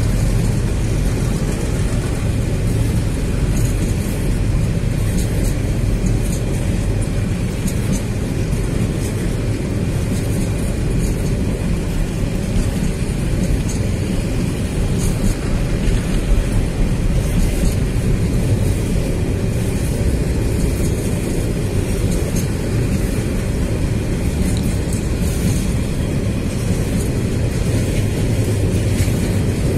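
Container freight train's wagons rolling steadily past: a continuous low rumble of wheels on rail, with faint scattered clicks over it.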